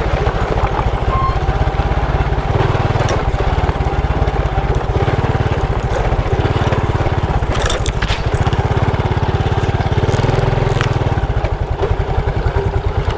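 Motorcycle engine running under way, a fast low pulsing beat that swells a few times as the throttle opens and eases.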